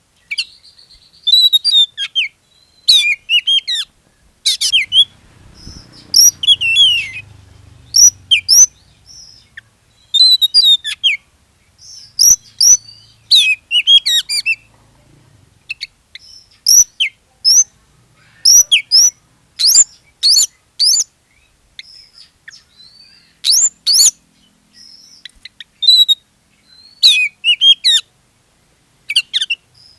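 Oriental magpie-robin (kacer) in full, vigorous song: loud phrases of clear whistles, quick up-and-down glides and chattering notes, one after another with short gaps. A faint low hum sits under the song in the first third.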